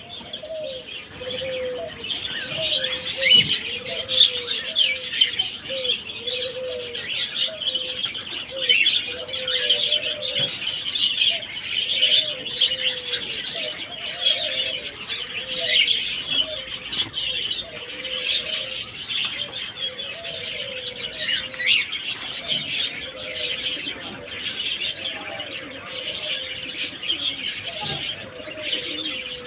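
A crowd of birds chirping without pause, with pigeons cooing over and over underneath, as at a pigeon loft or aviary.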